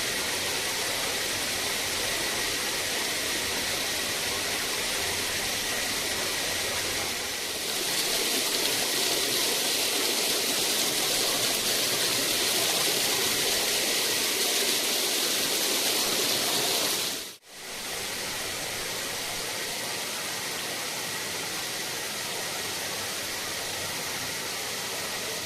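Steady rushing roar of a waterfall, water pouring and splashing. It swells slightly about eight seconds in, breaks off for an instant at a cut about seventeen seconds in, and then carries on a little quieter.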